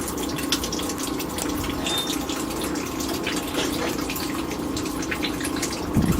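Asko dishwasher running its wash cycle: water spraying and splashing inside the tub over the steady hum of the wash pump motor. A short low thump comes near the end.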